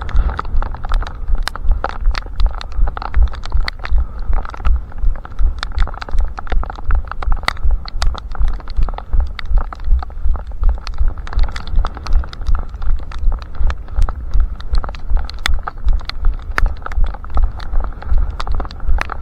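Running footsteps at a steady pace, a low thud with each stride about two and a half times a second, with sharp clicks among them, picked up by a head-strapped camera that jolts with every step.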